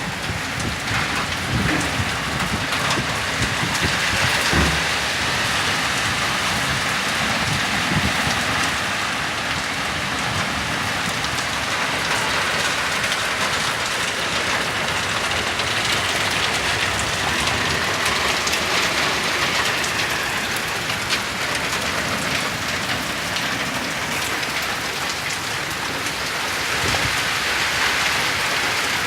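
Heavy rain falling steadily, a dense hiss with many separate drops ticking and thudding on nearby surfaces.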